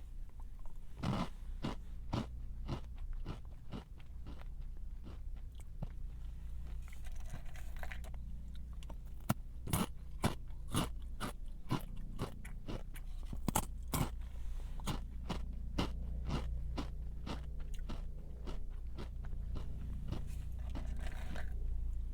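A crunchy snack being bitten and chewed: a steady run of crisp crunches, densest and loudest around the middle.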